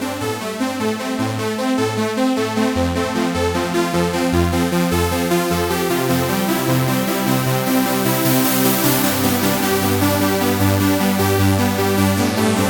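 Sequential Prophet-6 analog polyphonic synthesizer playing electronic music with no external effects: a rhythmic bass line pulsing under sustained chords, the upper tones brightening about two thirds of the way through.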